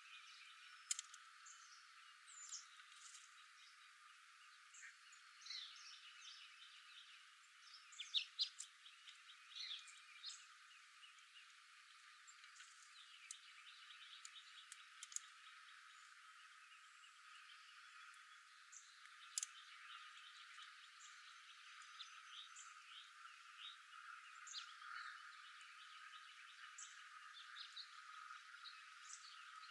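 Faint outdoor chorus of small animal calls: many short chirps and quick trills, in the manner of songbirds and calling frogs, with a brief run of louder sharp chirps about eight seconds in.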